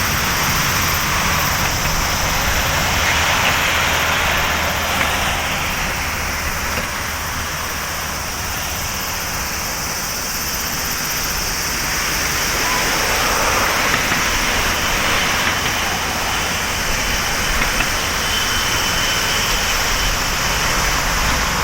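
Boeing 777-200ER jet engines running, a steady rushing noise that eases off slightly around the middle and swells again, with a faint thin high whine coming in over the later part.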